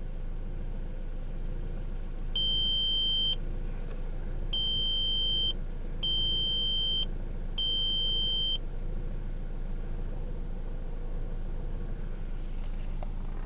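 2000 Volkswagen Passat's turbocharged engine idling steadily, with the car giving four electronic warning beeps of about a second each, spaced about a second apart, starting about two seconds in. The engine is smoking oil after a turbo replacement.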